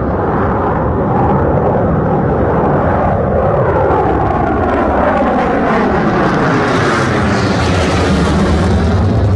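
Northrop Grumman B-2 Spirit stealth bomber's four turbofan engines passing overhead: loud, steady jet noise with sweeping, phasing tones that slide in pitch as it goes by, turning hissier near the end.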